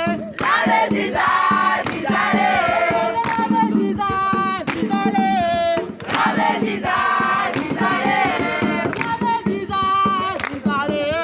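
A group of voices singing a song or chant together, in phrases separated by short breaks.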